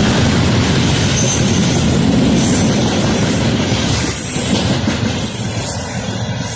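A train running along the track: a loud, steady rumble of wheels on rails.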